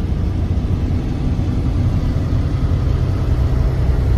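Truck engine running steadily with road noise, a continuous low drone.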